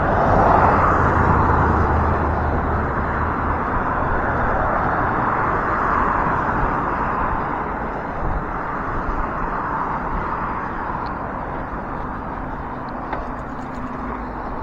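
Fast road traffic going by, a steady rush of tyre and engine noise that swells about a second in and again midway as vehicles pass, then slowly fades.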